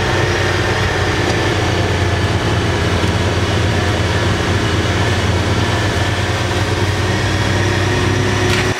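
A small off-road utility vehicle's four-stroke engine running steadily under way, a loud low drone with a faint high whine above it. The low drone drops away abruptly just before the end.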